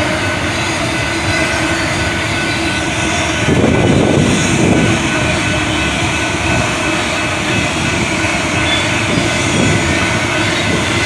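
Train cars rolling past on the rails, a steady loud rumble and rattle with a faint steady tone above it, swelling louder for about a second and a half around four seconds in.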